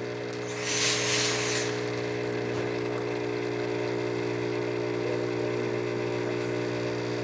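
DeLonghi Magnifica espresso machine's pump buzzing steadily as it pulls a double shot, brewing normally after a brew-group tune-up. A short hiss rises over it about a second in.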